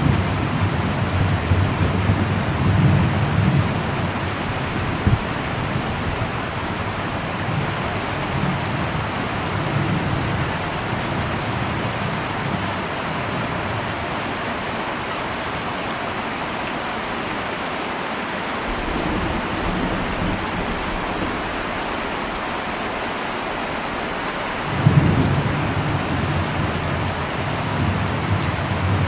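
Heavy rain falling steadily on an old metal roof, with thunder: a low rumble fades over the first few seconds, and a new rumble of thunder breaks in sharply about 25 seconds in.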